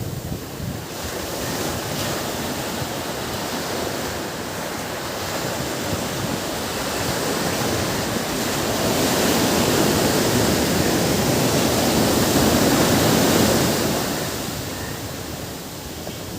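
Ocean surf: a steady wash of waves that swells louder through the middle and eases off near the end, as a wave breaks and draws back.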